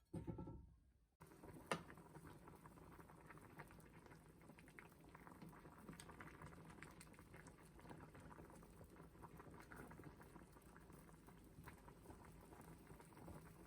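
Liquid boiling in a pot: a faint, steady bubbling crackle, with one sharp click about a second and a half in.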